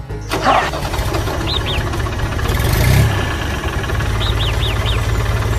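A tractor engine running steadily with a low, even rumble, and a few short high chirps over it.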